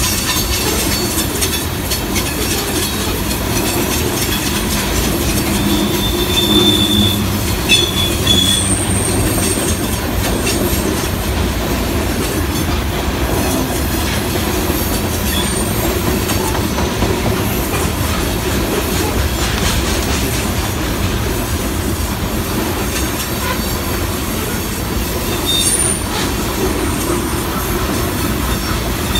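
Loaded coal hopper cars of a freight train rolling past on a grade: a steady heavy wheel rumble and clatter, with brief high-pitched wheel squeals about six to ten seconds in and again near the end.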